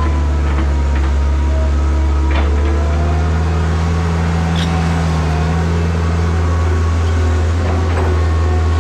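Diesel engine of heavy earthmoving equipment running steadily, a loud deep drone with faint higher whining tones and a few light clicks over it.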